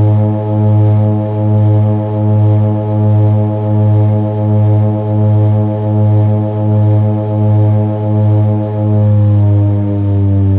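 Seaplane's propeller engines droning loudly inside the cabin during takeoff, with a steady low hum that swells and fades about once every 0.8 s. Near the end the pitch of the upper tones drops slightly.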